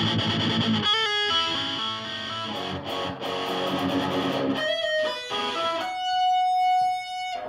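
Guitar playing an instrumental passage: a run of single picked notes, ending on one long held note about six seconds in.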